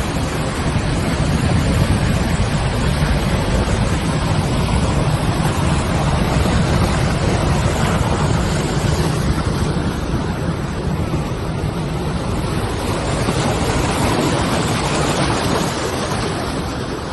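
Trommel screen and spiral sand washing machine running: a steady, loud rumble with a rushing, water-like noise over it.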